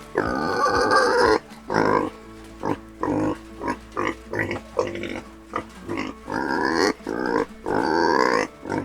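Pigs calling over and over: several long calls of about a second each, with shorter grunts between them.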